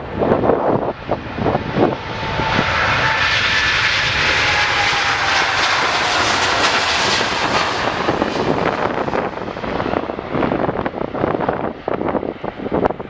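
Jet airliner's engines passing close by: a steady rush that swells about two seconds in and fades near the end, with a whine that slowly falls in pitch as it goes past. Wind buffets the microphone at the start and end.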